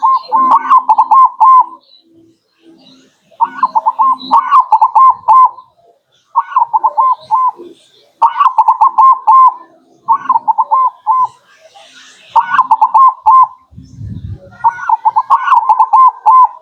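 Zebra dove (perkutut) singing its quick staccato cooing song in repeated phrases of one to two seconds each, with short pauses between them, as a lure call. A brief dull low thump comes about fourteen seconds in.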